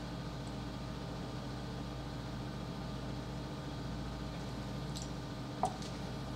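Steady low hum and hiss, with a couple of faint clicks and one short knock near the end as a paper drink cup is set down.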